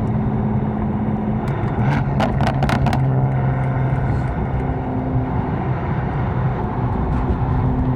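Catless BMW M4's twin-turbo inline-six running at light, steady revs, heard from inside the cabin; its pitch steps up slightly about two seconds in. A few sharp clicks come between about one and a half and three seconds in.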